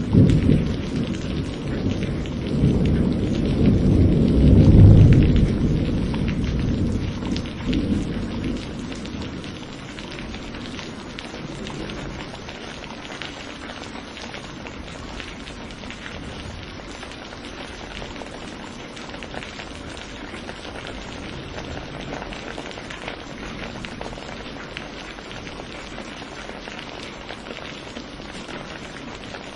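Thunder rolling over steady heavy rain: a long low rumble that swells to its loudest about five seconds in and dies away by about nine seconds, leaving the even hiss of rain falling.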